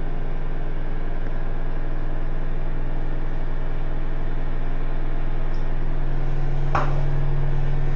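A steady low mechanical hum made of several even tones, with one brief sharper sound about seven seconds in.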